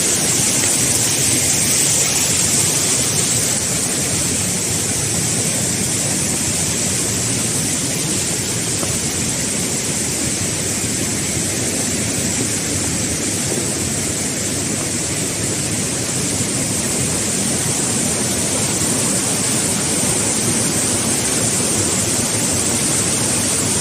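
Ponot Waterfall: water pouring down and splashing on rock, a steady loud rush.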